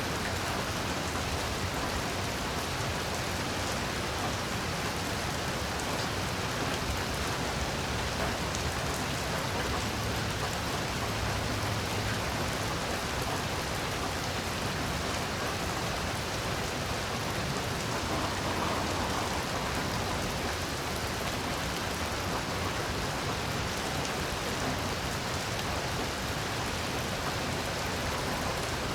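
Heavy rain falling steadily, a dense, even hiss of drops with no change in strength.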